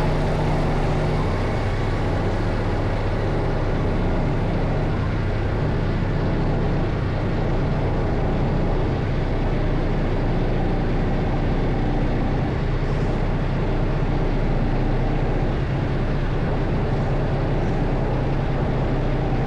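Semi truck's diesel engine running with a steady low drone that holds even throughout.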